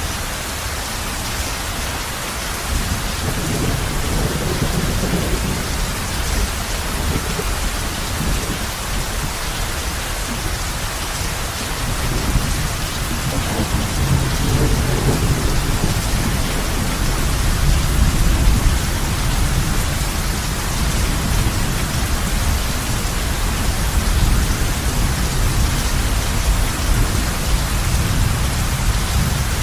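Heavy rain falling on a roof as a steady hiss, with low rolling thunder swelling a few seconds in and again, louder, through the middle.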